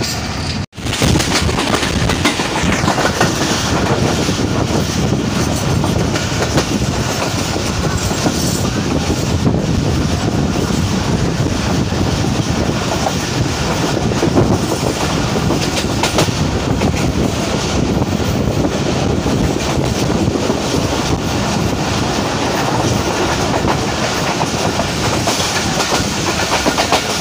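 Subak Raftar Express railcar train in motion: steady running noise of wheels on the rails, with a rattle of the carriage. The sound cuts out for an instant about a second in, then carries on unchanged.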